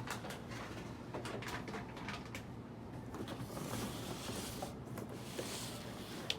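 Handling noise from unboxing an electric scooter: scattered light clicks and knocks of packaging and parts being moved, with two stretches of rustling past the middle.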